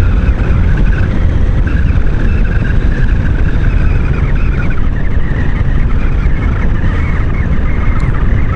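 Maxi-scooter riding along: a loud, steady low rush of wind and road noise over the engine, whose note wavers up and down a little.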